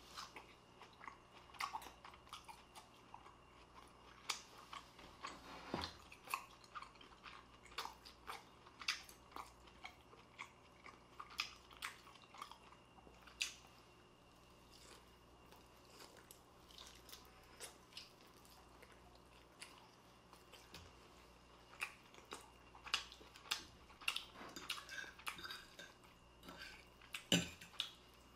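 Faint eating sounds: a person chewing and biting food, with irregular short clicks and scrapes of a fork and knife on the plate as bacon and fried egg are cut.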